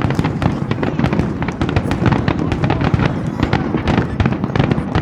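Fireworks display: a dense, unbroken barrage of shell bursts and crackles, many per second, over a continuous low rumble.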